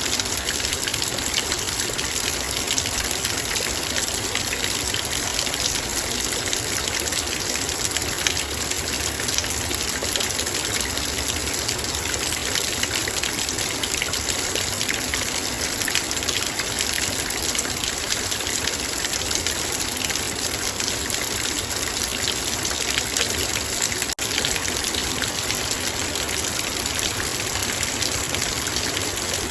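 Heavy rain falling steadily, a dense spray of drops striking a metal bowl.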